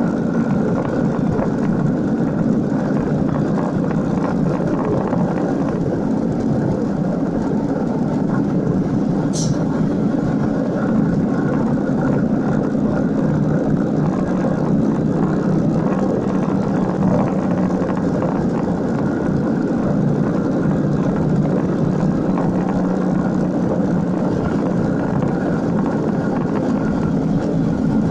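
Motorcycle engine running at a steady pace while riding, mixed with wind rush. A brief sharp click about nine seconds in.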